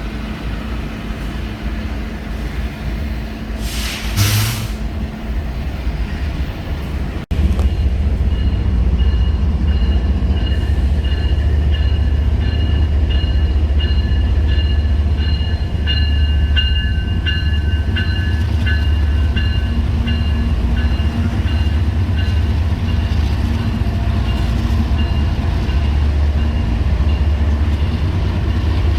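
Freight train rumbling along the track. About seven seconds in the sound cuts and comes back louder, and a thin high ringing runs over the rumble through the middle.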